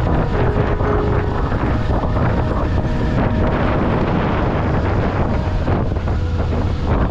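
Wind rushing over the microphone on a moving motorcycle, with the Kawasaki Eliminator 500's parallel-twin engine running steadily underneath.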